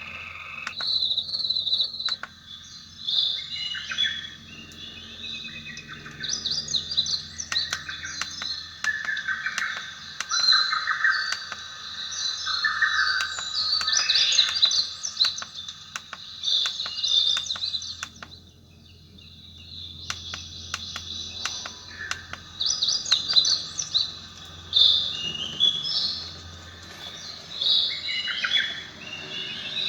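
Recorded birdsong played back by a white noise sound machine: a chorus of chirps and trills, in irregular phrases, with a faint low hum beneath.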